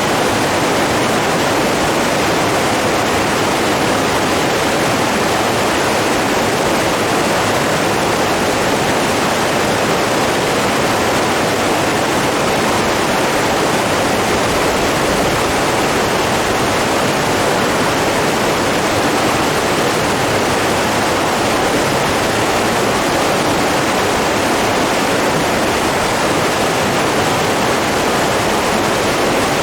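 Running water rushing steadily, an even, unbroken roar with no changes.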